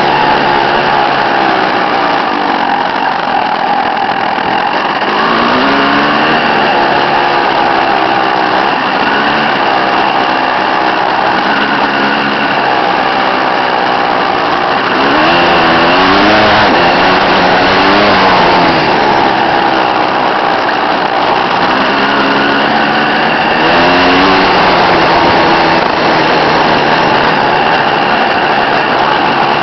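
Dirt bike engine riding on a trail, its pitch rising and falling every few seconds as the throttle is opened and rolled off.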